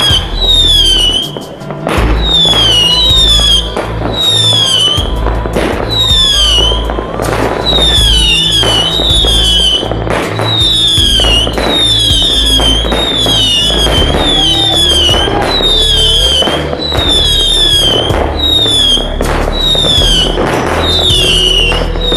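A firework battery firing shot after shot, about one to two a second: each shot a short falling whistle with a crack. Music plays underneath throughout.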